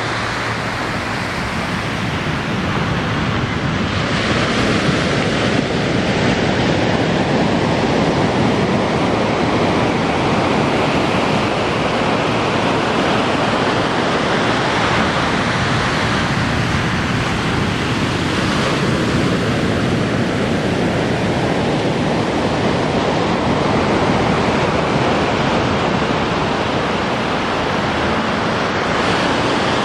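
Ocean surf breaking and washing up a beach: a continuous roar of white water with no pauses.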